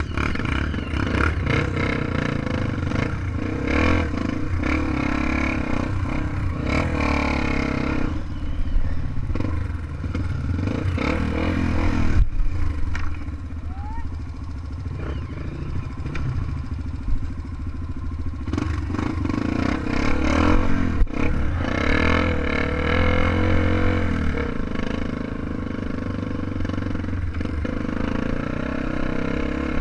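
Trail motorcycle engine running, its note rising and easing off several times.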